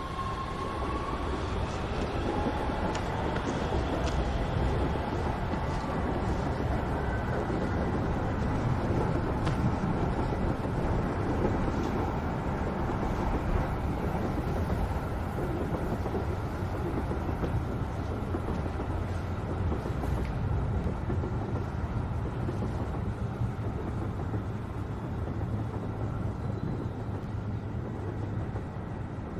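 Subway train running: a steady rumble and rushing noise heard from inside the carriage.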